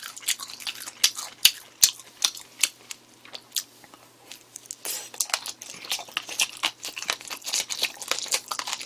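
Close-miked chewing of crunchy pork cartilage (odolbbyeo): quick crackling crunches, scattered at first, then dense and steady from about five seconds in as a fresh mouthful is chewed.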